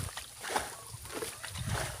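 Shallow muddy water sloshing and splashing in a string of irregular strokes, about two a second, with a heavier low slosh near the end, as someone works through a mud hole fishing by hand.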